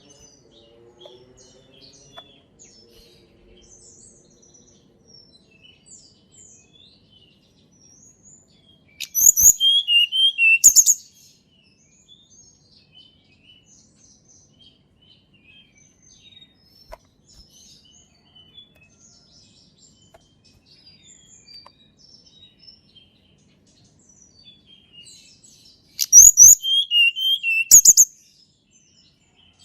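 Tledekan gunung songbird singing: two loud bursts of quick, high-pitched repeated notes, each about two seconds long and about seventeen seconds apart, with faint scattered chirping of other birds in between.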